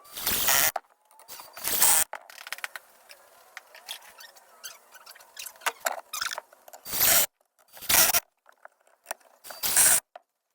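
Woodworking noise from fitting decking and paneling: about six short, harsh scraping or cutting bursts, each under a second, spaced irregularly, with quieter rasping between them.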